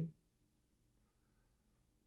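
Near silence: a pause in a man's speech, with a faint steady low hum of room tone.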